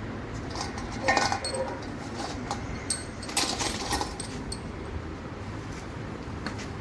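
Steel cylinder-head bolts clinking and rattling as they are handled and fitted into the head of a Ford Figo diesel engine, in irregular bursts, with a brief call-like sound about a second in.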